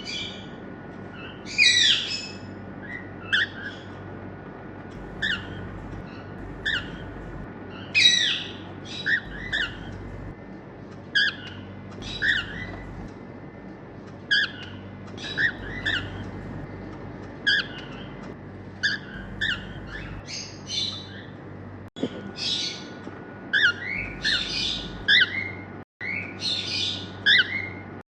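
A pair of normal grey cockatiels chirping and whistling in short, repeated calls, with a few louder, harsher screeching calls mixed in and livelier calling near the end.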